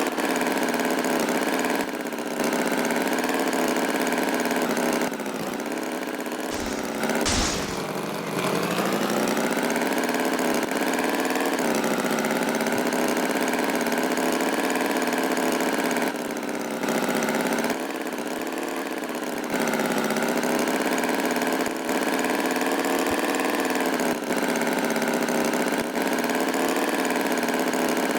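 A tractor engine running steadily, its pitch wavering slightly, with small jumps in level every few seconds and a brief swish about seven seconds in.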